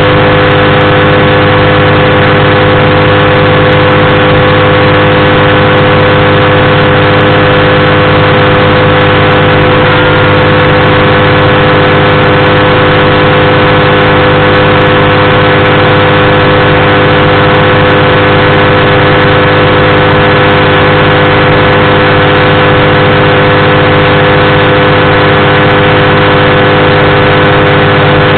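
Powered parachute's engine running steadily and loud, its pitch held constant throughout.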